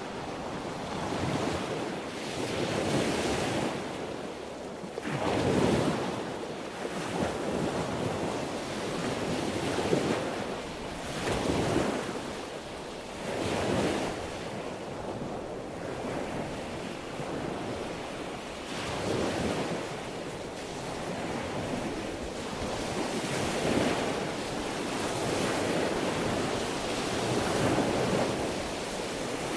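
Sea waves washing onto a shore: a continuous rush of surf that swells and falls back every couple of seconds.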